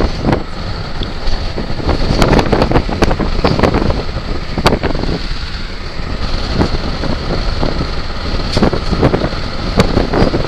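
Gusty wind buffeting the microphone, a steady low rumble broken by frequent sharp crackles.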